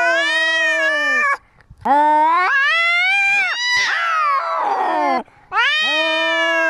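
Domestic cat yowling in long, drawn-out calls that bend up and down in pitch. The first call ends about a second in, a second runs to about five seconds and turns rough and raspy near its end, and a third begins just after and continues.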